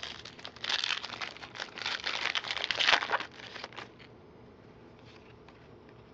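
Trading card pack wrapper being torn open and crinkled by hand, a dense crackling rustle lasting about three seconds and stopping suddenly.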